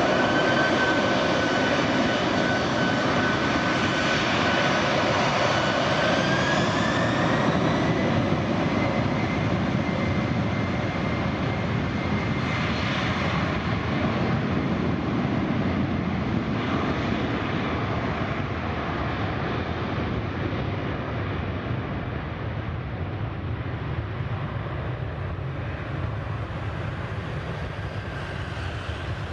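Jet airliner's engines with a whine that climbs in pitch over the first several seconds and then holds, over a broad, steady engine noise that slowly fades.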